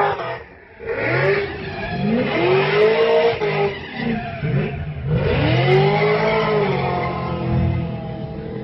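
Engine being revved about three times, its pitch rising and falling with each rev, the last one the longest.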